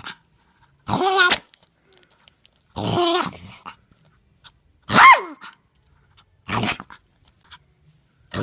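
A dog making four short whining, howl-like calls about a second and a half to two seconds apart. The loudest, about five seconds in, slides sharply down in pitch.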